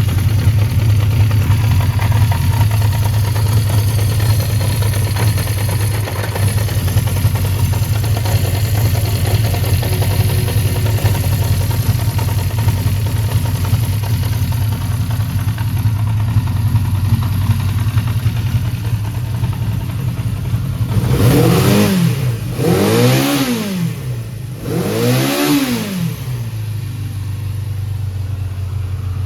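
Honda CB400F's 408cc air-cooled four-cylinder engine idling steadily, then blipped three times in quick succession near the end, each rev rising and falling back to idle, showing it revs up freely.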